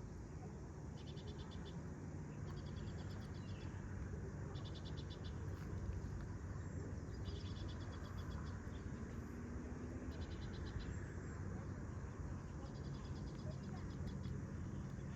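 A high, rapidly pulsing trill from a small calling animal, each trill about a second long and repeating every second or two. A steady low rumble runs underneath.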